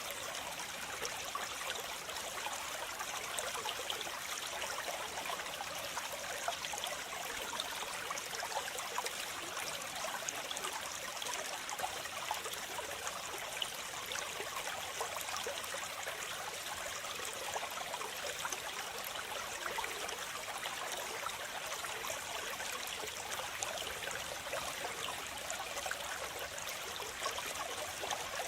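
Waterfall: falling water splashing in a continuous, even hiss, mostly high and with little low rumble.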